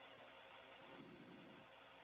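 Near silence: faint steady static hiss of a communications audio feed, with a brief faint low murmur about a second in.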